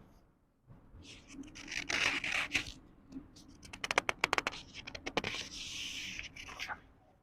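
Book pages being turned slowly by hand: paper rustling, then a quick run of crisp crackles about four seconds in, then another longer rustle.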